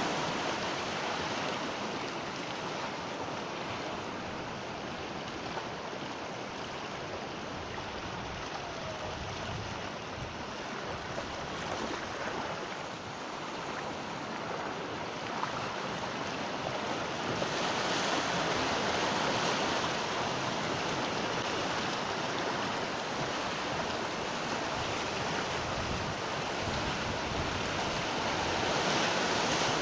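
Sea waves breaking and washing up on the shore in a continuous surf. The level swells and eases, growing louder a little past halfway and again near the end.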